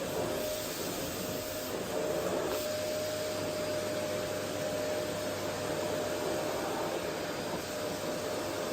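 Vacuum cleaner running steadily: an even rushing hiss with a steady whine held over it.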